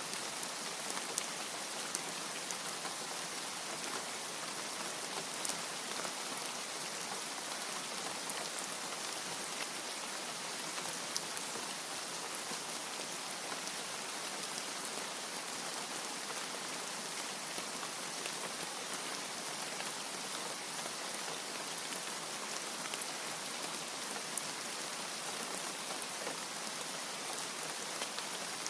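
Steady, even rain with scattered sharper drop ticks.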